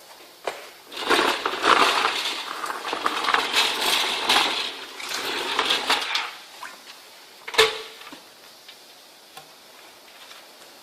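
Loose metal screws rattling and clinking as a wet/dry industrial vacuum cleaner sucks them up its hose, for about five seconds, then a single sharp knock.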